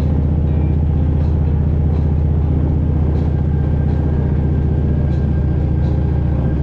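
Motorcycle engine running at a steady cruising speed: a constant, unchanging low drone.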